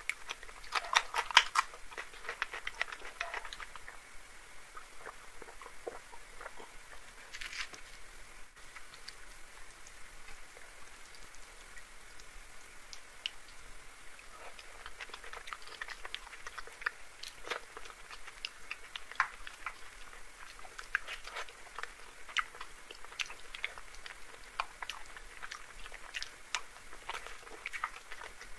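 Close-up chewing and mouth sounds of someone eating luchi with dum aloo by hand: a burst of crunchy bites in the first few seconds, then scattered wet clicks of chewing.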